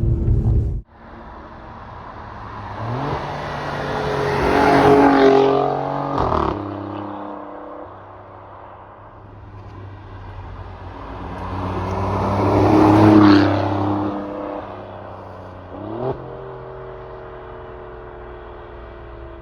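Alfa Romeo Giulia Quadrifoglio's twin-turbo V6 engine and exhaust. A loud rumble cuts off abruptly just under a second in. The car then pulls twice under acceleration, rising in pitch and loudness for a few seconds before dropping at a gearchange, and cruises steadily between the pulls.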